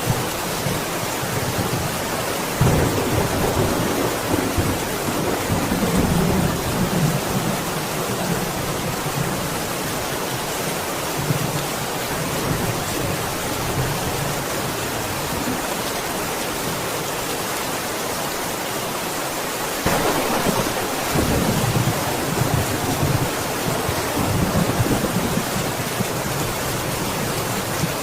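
Steady heavy rain with rolls of thunder, one rumble rising about three seconds in and another about twenty seconds in, each lasting several seconds.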